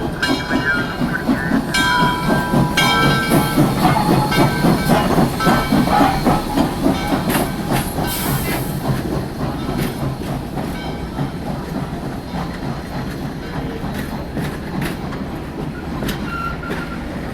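A passing train's cars clattering over the rail joints in a fast, dense rhythm. The clatter is loudest about four to six seconds in and then slowly fades.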